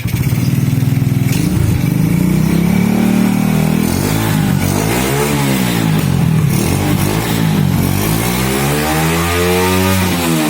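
Honda C70 motorcycle with a Supra Fit single-cylinder four-stroke engine, its engine rising in revs and dropping back twice, the second run-up peaking near the end.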